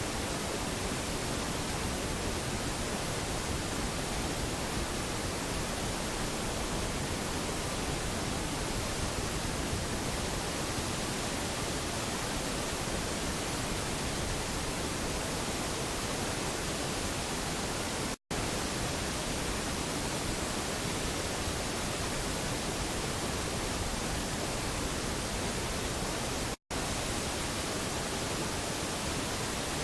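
Rushing floodwater: a steady, even rush of water noise, cut by two very brief dropouts to silence, one about two-thirds of the way in and one near the end.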